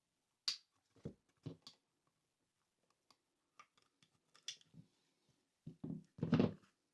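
A rubber bicycle handlebar grip being cut down to length: a scattering of short, faint snips and clicks, with a louder pair of cuts about six seconds in.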